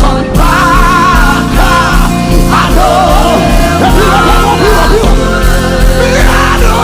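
Live worship band playing loudly, with a steady low beat and a voice singing over it.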